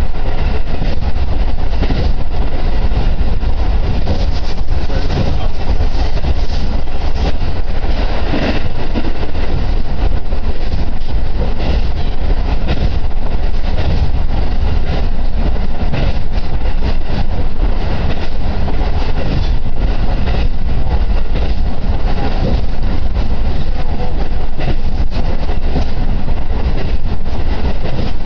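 Diesel railcar running at speed, heard from inside the car: a loud, steady rumble of engine and wheels on the rails.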